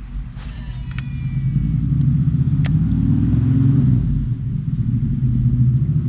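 A motor vehicle engine running close by, a loud low rumble that builds over the first two seconds and then holds steady, with a few light clicks early on.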